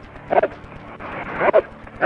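A dog barking, two short barks about a second apart.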